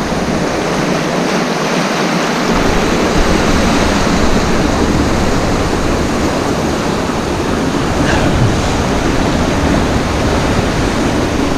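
Steady rushing of surf on a rocky shore. From about two and a half seconds in, a low rumble of wind buffeting the microphone joins it.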